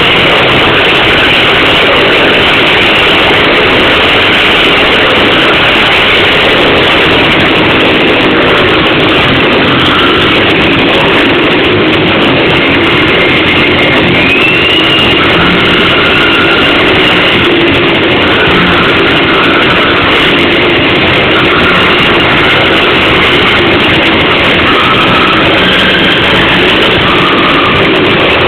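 Several motorcycles running together inside a globe of death, engines revving in a loud, unbroken din.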